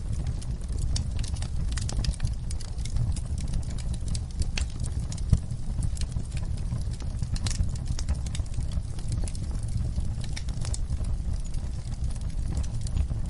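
Wood fire burning in a fireplace: irregular crackles and sharp pops over a steady low rumble, with one louder pop about five seconds in.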